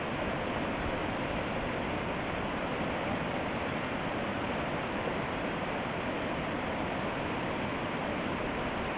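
Floodwater rushing down a desert wash, a steady, unbroken roar of storm runoff.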